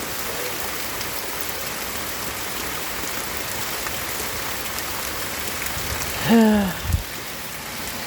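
Steady rain falling on surfaces. About six seconds in there is a short falling voice sound, followed by a brief low thump.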